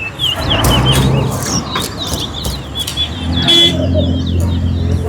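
Caged towa-towa finches singing in a song-count race: quick, repeated short chirping notes, with a low hum underneath that grows stronger in the second half.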